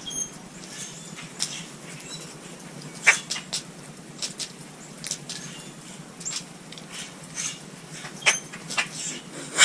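Small birds at a winter feeder: scattered sharp clicks and ticks of pecking and hopping, with a few very brief high chirps.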